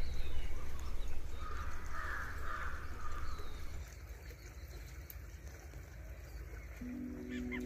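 Outdoor field ambience with a steady low rumble, over which a bird gives harsh calls about one to three seconds in. Soft ambient music comes in near the end.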